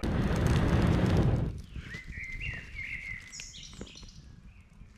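A hard, rushing blast of breath, someone blowing strongly for about a second and a half, followed by a bird singing a short chirping phrase.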